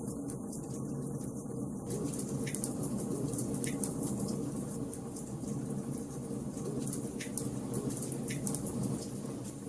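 Wood fire burning in a fireplace, crackling steadily with a few sharper pops.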